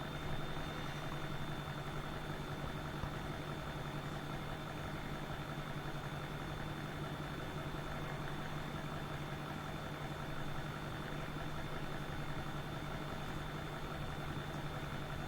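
Steady low electrical hum with a thin, faint high-pitched whine over a quiet background hiss: constant room or equipment noise with no events.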